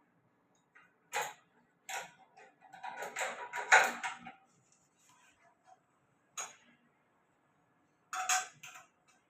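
Irregular sharp clicks and clatters: two single ones, then a dense rattling cluster a few seconds in that is the loudest part, followed by one more click and a short burst near the end.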